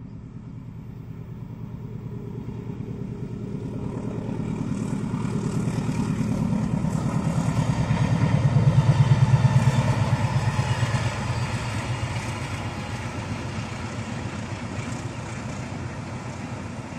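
Passenger train hauled by a diesel locomotive passing by. The engine's low pulsing note grows louder to a peak about nine seconds in, then fades as the coaches roll past.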